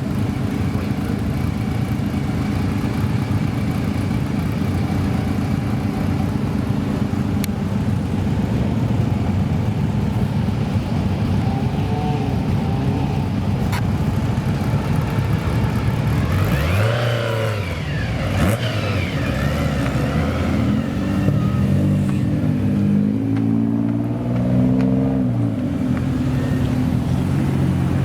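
A modified car's engine running with a steady low rumble, then revved sharply about two-thirds of the way in, rising and dropping back. It follows with several quick revs, its pitch stepping up and down repeatedly before settling near the end.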